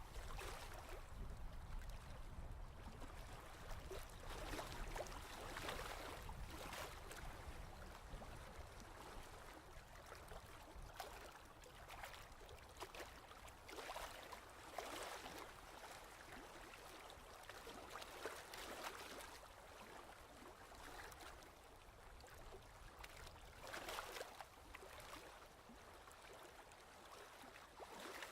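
Faint ocean waves washing in, a soft hissing surge every few seconds over a low steady rumble.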